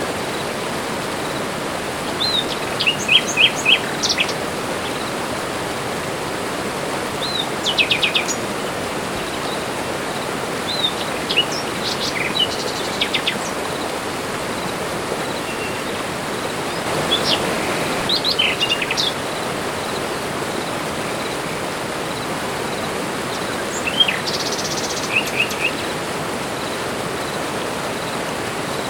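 Several birds calling in a tropical forest: short high chirps and quick trills in brief bursts every few seconds, over a steady rushing background hiss.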